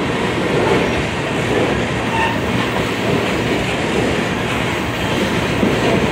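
Freight train of tank cars rolling past at close range: a steady rumble of steel wheels on the rails with some clatter from the cars, at an even level throughout.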